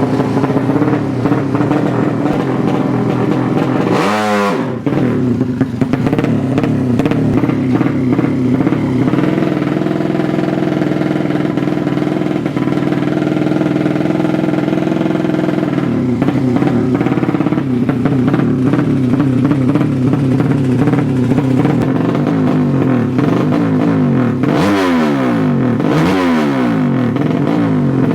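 Drag-racing motorcycle engines running at high revs, holding a steady note through most of it. There is a quick dip and recovery in pitch about four seconds in, and several fast rising and falling sweeps near the end.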